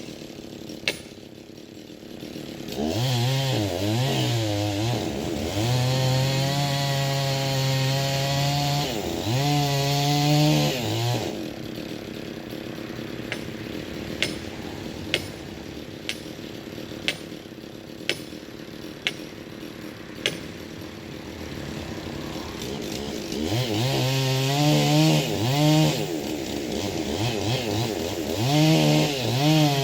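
Gasoline chainsaw cutting into a hardwood tree trunk, its engine pitch dipping and rising as the chain bites. Near the middle the saw stops and there is a series of sharp knocks about a second apart, then the saw starts cutting again.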